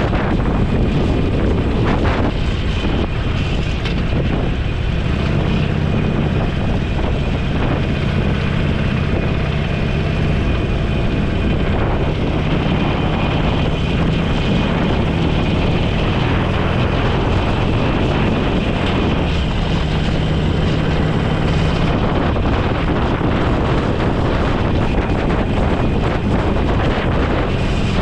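Motorcycle under way: steady wind rush over the microphone, with the engine's hum underneath that comes and goes and shifts up and down in pitch several times.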